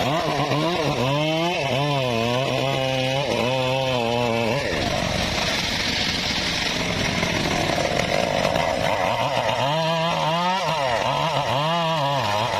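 Engine-driven saw cutting mahogany. The engine's pitch dips and recovers again and again as the blade takes and sheds load, with a stretch of steadier running in the middle.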